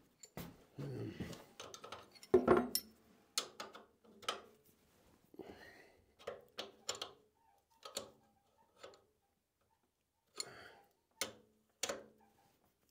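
Irregular clicks and knocks of hand tools on the metal parts of an old Craftsman radial arm saw as a too-tight adjustment is loosened, with the loudest knocks about two and a half seconds in.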